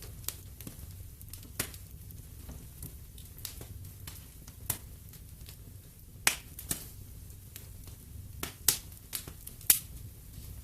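Wood fire in a fireplace crackling, with irregular sharp pops over a low steady rumble of the flames; several louder pops come in the second half.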